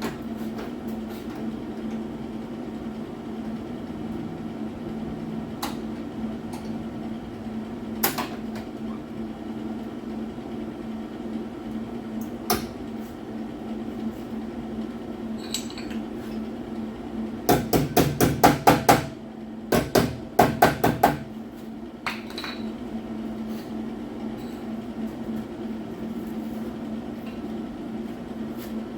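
A hammer striking car body sheet metal in two quick runs of blows, each about six to eight strikes, over a steady hum, with a few single knocks before them.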